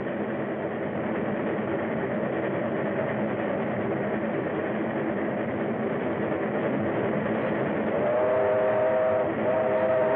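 Steam locomotive running with a steady rumble. About eight seconds in, its steam whistle blows: a short blast, then after a brief break a second, longer one.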